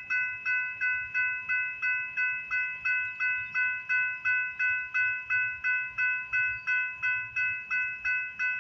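Railway level-crossing warning bell ringing steadily, about three strokes a second, with the crossing gates down for a passing train.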